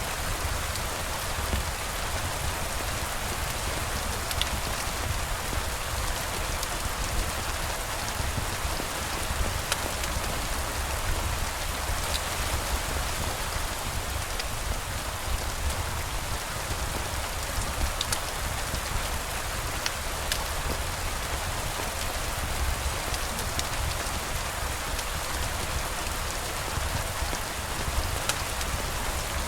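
Steady rain falling on surfaces, an even hiss with a low rumble underneath and a few scattered faint ticks of drops.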